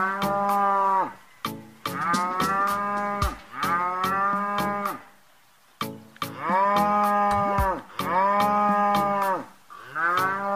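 A cow mooing over and over, six moos of about a second each, each rising and then falling in pitch, with sharp clicks scattered among them.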